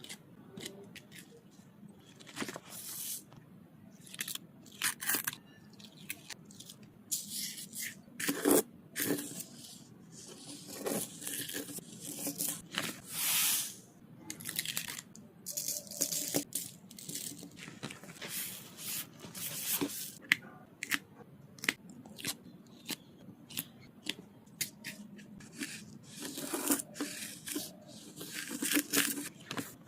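Close-up crafting noises from sand-art work: irregular short crackles and tearing as the backing is peeled from the adhesive sheet, and the hiss and rustle of glitter sand being poured and rubbed on, in a few longer stretches.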